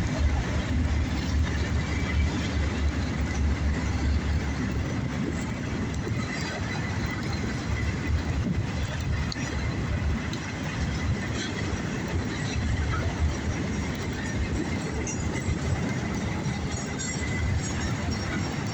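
CSX freight train passing close by: the GE ES40DC diesel locomotive working as a mid-train distributed-power unit grumbling past, then the empty autorack cars rolling by with a steady low rumble and wheel clatter.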